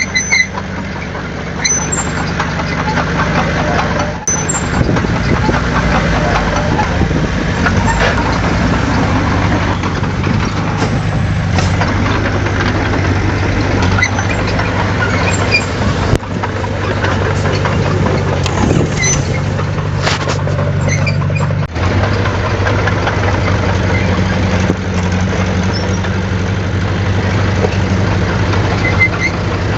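Heavy diesel engine of earthmoving machinery running steadily, its note shifting now and then as the load changes, with a few brief knocks.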